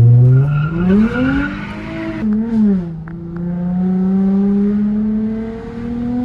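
Car engine revving hard under full throttle, rising quickly in pitch with tyre squeal as the car slides on a wet road. About two seconds in the engine note drops sharply, then climbs slowly and steadily again.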